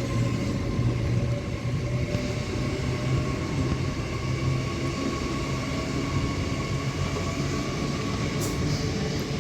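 Avanti West Coast Class 807 Evero electric train at the platform, giving a steady electric hum and whine.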